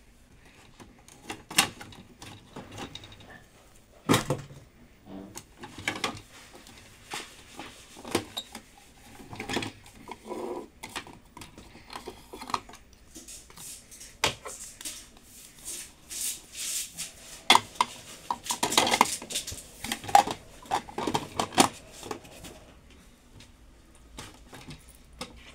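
Irregular clattering, clicks and knocks of hard objects being handled, growing busier and louder in the second half.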